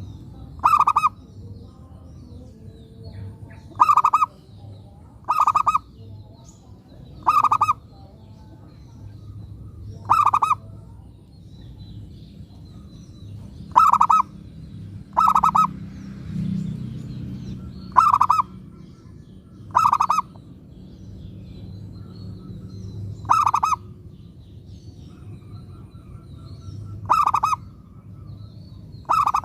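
Zebra dove (perkutut) calling: about a dozen short, loud coos, one every two to four seconds, over a low steady rumble.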